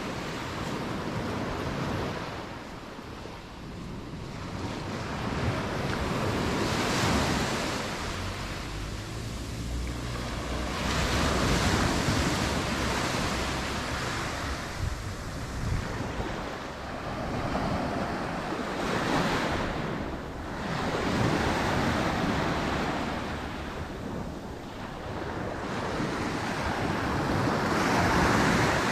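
Mediterranean sea waves breaking and washing up on the beach, the surf swelling and falling back about every five seconds.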